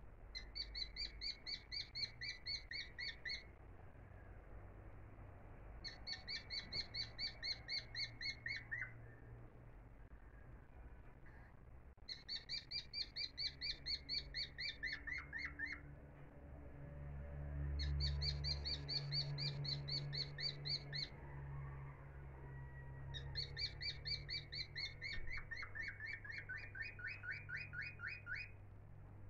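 A bird trilling in five separate bouts of a few seconds each, every bout a fast run of repeated high chirps, over a faint steady low hum.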